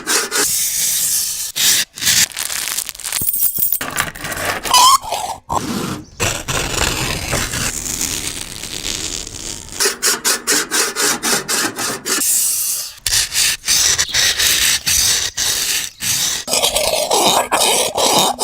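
A run of harsh scraping and rubbing noises, changing from one sound to another every few seconds, with a short squeal about five seconds in and a stretch of quick repeated strokes about ten seconds in.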